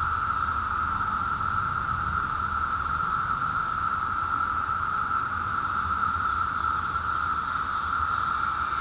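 Chorus of 17-year periodical cicadas, a steady droning hum that holds one pitch without a break, with a fainter, higher hiss that swells a couple of times near the end.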